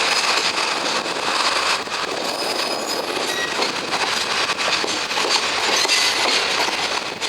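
Freight train running past: steady noise of steel wheels on rail, with a few brief high-pitched wheel squeals.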